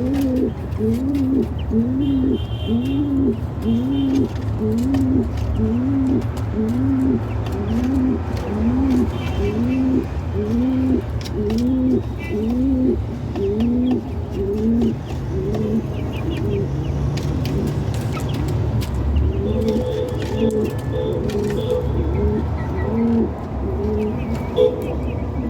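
Pigeons cooing: a steady run of rising-and-falling coos about once a second over a low steady rumble, with a few faint higher chirps.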